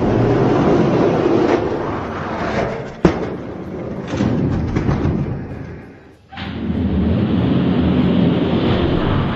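Rumbling noise of die-cast toy monster trucks rolling down a race track, in three stretches separated by short dips, with a sharp knock about three seconds in.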